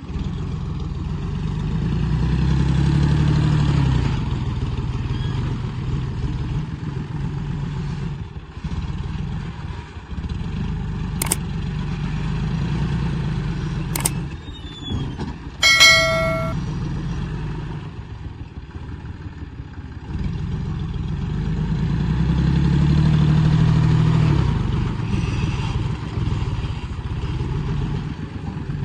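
Heavy diesel engine of earth-moving machinery running steadily, swelling up twice under load. About halfway through, two sharp clicks come just before a short, loud horn-like honk.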